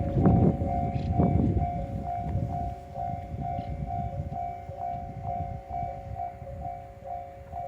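Railway level-crossing warning bell ringing in a steady two-tone ding-ding, about two strokes a second, over the low rumble of a train that is loudest in the first couple of seconds and then dies away.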